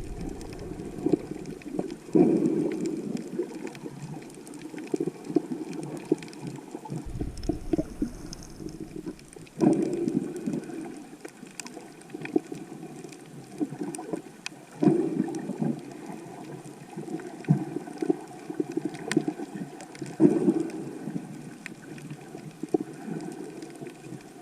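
Muffled underwater water noise from a camera in the sea while snorkelling, swelling in surges about every five seconds, with scattered faint clicks.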